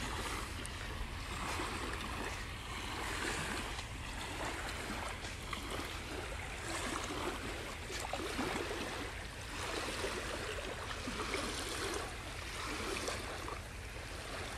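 Sea waves washing gently on the shore in an even hiss that swells and eases every second or two, over a low rumble.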